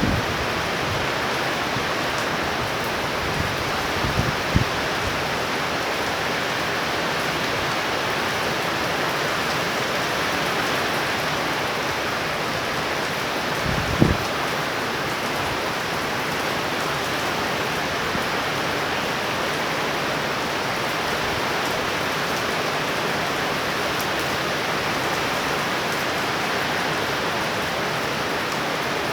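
Heavy, steady rain pouring down during a tropical thunderstorm. A few short low thumps come about four seconds in and again about fourteen seconds in.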